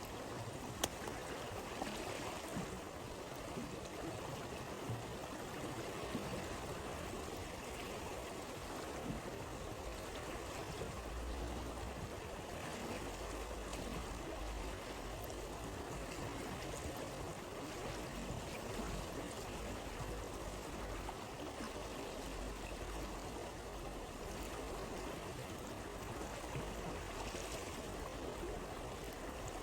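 A stream flowing steadily, with a few sharp campfire crackles in the first ten seconds.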